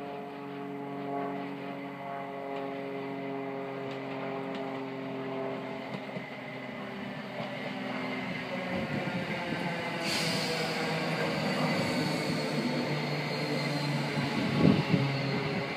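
Electric multiple-unit train approaching and passing along the platform: a steady hum of several tones grows into a louder rush of wheels on rails, with a high whine from about ten seconds in that slowly falls in pitch, and a couple of thumps near the end.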